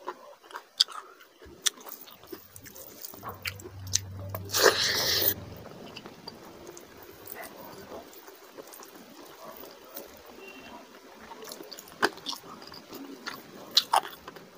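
Close-up mouth sounds of someone eating rice and curry by hand: wet chewing with lip smacks, and squishing as the rice is mixed on the plate. About five seconds in comes a loud, harsh burst of noise lasting under a second.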